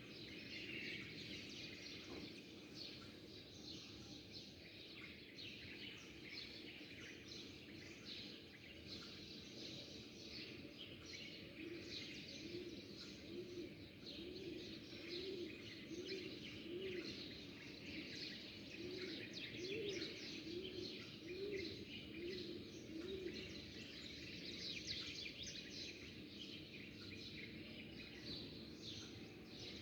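Many small birds chirping and twittering together in a steady chorus. Through the middle, a dove coos in two runs of evenly repeated low notes.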